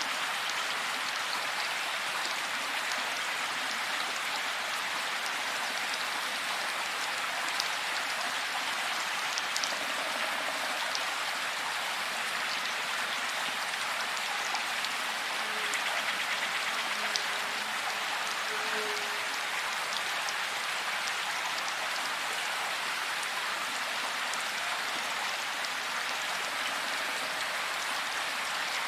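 Steady rain falling, with scattered sharper drops ticking through the even hiss.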